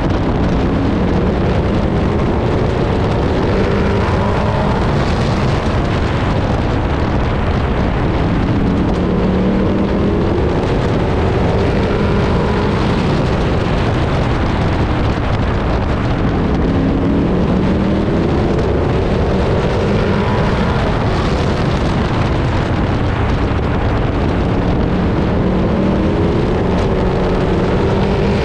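Race truck's engine heard from inside the cab, running hard with its revs rising and falling again and again, under steady wind and road noise.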